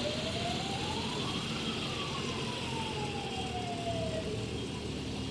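A siren giving one slow wail, rising for about a second and a half and then falling away over the next three seconds, over the steady running of vehicle engines.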